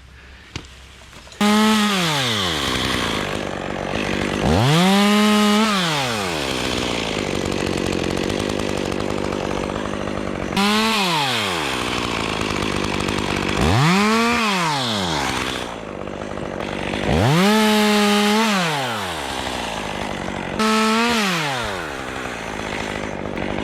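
Chainsaw cutting off a tree's lower limbs. The engine starts running about a second and a half in, then revs up to full throttle and drops back to idle about six times, once for each cut.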